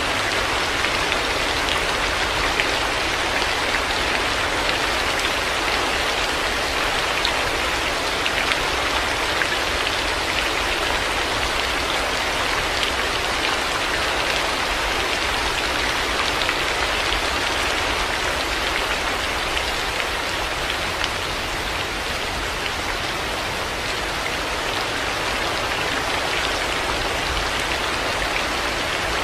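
Heavy rain falling steadily: a dense, even hiss with sharper drops ticking through it, over a steady low rumble.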